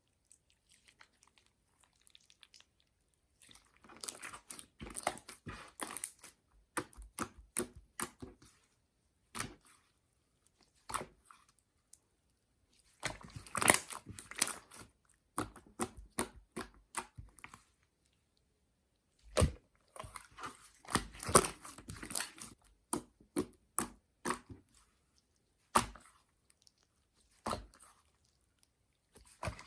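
Dragon-fruit jiggly slime being squeezed and pressed by hand, giving wet clicks and crackles. They come in bursts of a few seconds, with short quiet pauses between.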